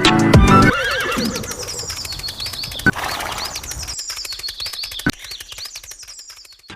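A horse whinnying: a long, quavering neigh that slowly fades. Two sharp clicks come partway through.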